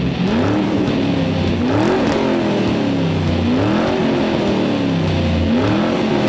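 Car engine revving sound effect laid over the toy car's motion. The pitch climbs and falls again about every two seconds, four times over.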